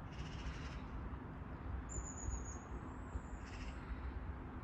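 Quiet outdoor ambience: a steady low rumble with a thin, high whistle lasting just under a second, about two seconds in.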